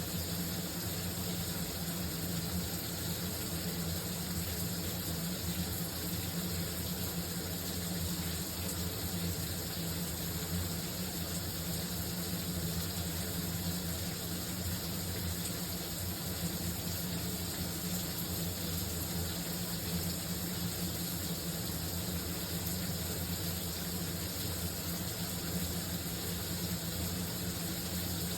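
A shower running: a steady, unbroken spray of water.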